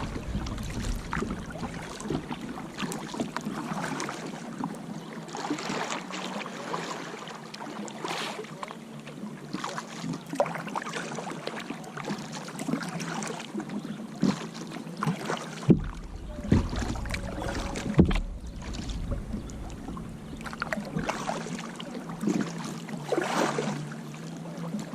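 Kayak paddling: paddle blades dipping and splashing in the water in an irregular run of strokes, with a few sharper knocks about two thirds of the way through, over a steady low hum.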